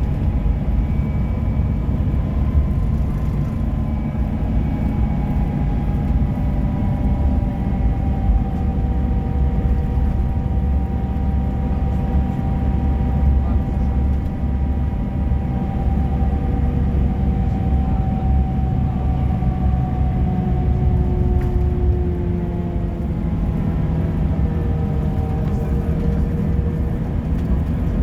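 Bus running on the road: a steady low engine and road rumble with several whining drivetrain tones that slowly fall and shift in pitch as the speed changes.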